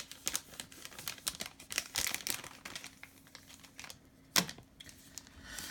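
Panini Prizm basketball cards being flipped through by hand: a quick, uneven run of light clicks and flicks as the cards slide off one another, with one louder snap about four seconds in.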